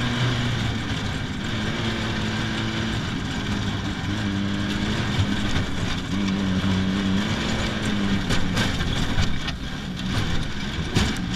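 Race car engine running hard, heard from inside the cabin, its note rising and dropping between gears over road noise. A few sharp knocks come near the end.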